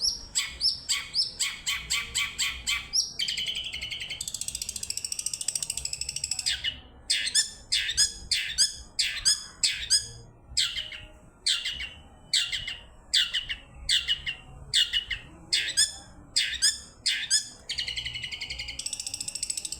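Long-tailed shrike singing. It opens with a quick run of sharp, falling notes, about five a second. Harsh buzzy chattering follows from about three to seven seconds in, then spaced, falling calls about twice a second, and the chatter returns near the end.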